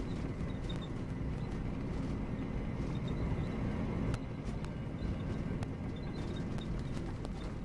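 Volvo B9R coach on the move: a steady low rumble of engine and road, with scattered sharp clicks and rattles and short, repeated high-pitched squeaks.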